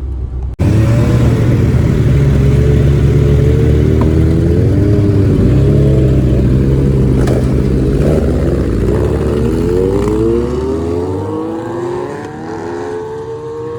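Superbike engines running loud right at hand, revved and then accelerating away, their pitch climbing in several rising sweeps and the sound fading toward the end.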